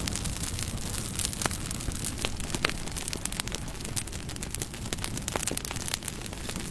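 Wood fire burning, with frequent sharp crackles and pops at irregular intervals over a steady low rumble.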